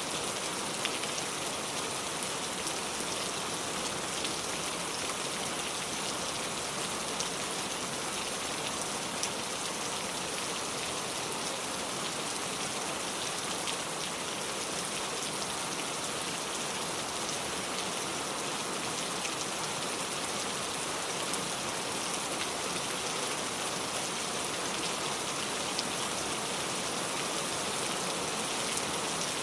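Steady rain falling, an even hiss with scattered faint drop ticks, without thunder.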